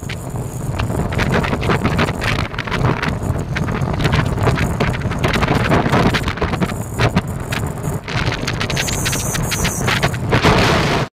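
Royal Enfield motorcycle running along the road, its engine sound heavily buffeted by wind on the microphone.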